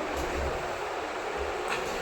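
Steady background hiss, with a faint brief high sound near the end.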